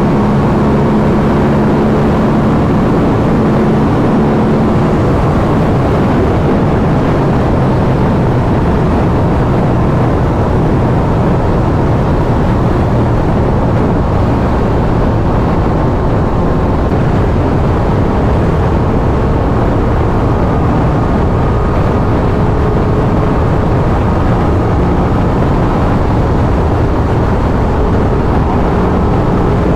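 Aprilia RS 660's parallel-twin engine on its stock exhaust, cruising at highway speed under heavy wind rush. The engine note is clear for the first few seconds, then mostly buried by the wind, with a faint tone climbing slightly in the second half.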